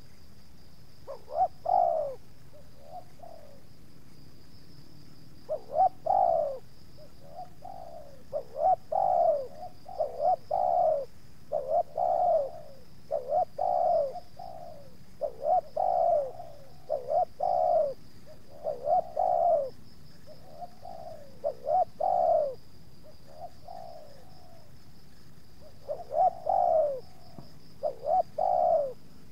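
Spotted doves (tekukur) cooing: repeated short coo phrases in groups with brief pauses, over a steady faint high insect-like drone.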